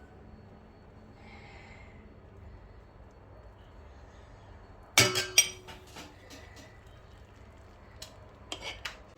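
Glassware clinking: two sharp, ringing clinks about five seconds in, followed by a few lighter taps near the end.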